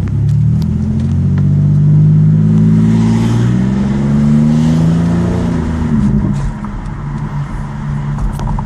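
2005 Pontiac Aztek's 3.4-litre V6 through a custom dual exhaust, accelerating. The engine note climbs in pitch, drops and climbs again, then falls back to a lower, steadier note about six seconds in.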